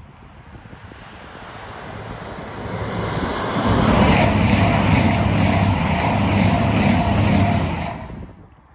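Diesel multiple-unit passenger train passing at speed. The engine noise builds over the first few seconds to a loud, steady run with a regular wheel clatter, then cuts off suddenly near the end.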